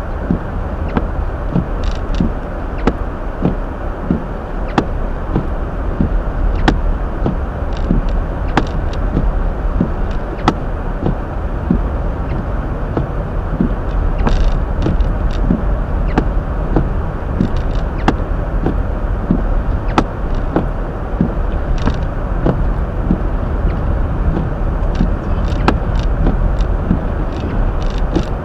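Hyundai Elantra driving on snow-covered, slippery road, heard from the dashcam: a steady low rumble of tyre and road noise with irregular sharp clicks and ticks scattered throughout.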